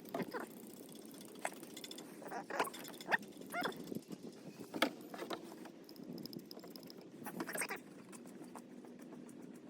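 Irregular clicks, taps and short scrapes from hand work: tools and metal parts being handled.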